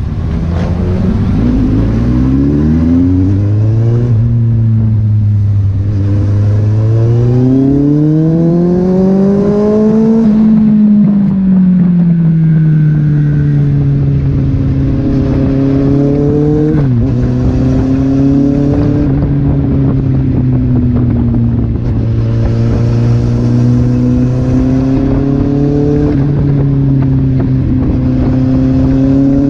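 Kawasaki Z800's inline-four engine accelerating through the gears. The pitch rises, drops at a shift about four seconds in, and climbs again to a peak around ten seconds. It then falls back and runs fairly steadily at a cruise, with a brief dip about two-thirds through.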